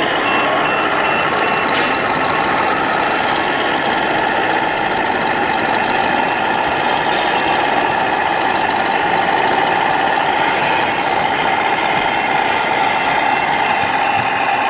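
Reversing beeper on a scale RC construction model: a high electronic beep repeating about three times a second, with a short break about nine seconds in, over a steady engine-like drone and drivetrain noise.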